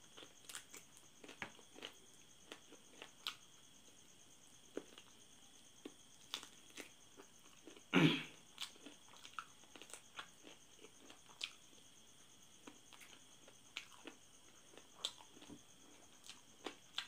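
Close-up mouth sounds of eating spicy chicken feet: soft chewing, lip-smacking and scattered small clicks, with one louder short mouth noise about eight seconds in as a foot is brought to the mouth.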